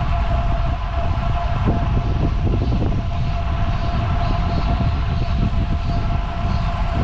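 Wind rushing and buffeting over the microphone of a bicycle rider moving at speed, a steady rumbling rush. A steady thin whine runs under it.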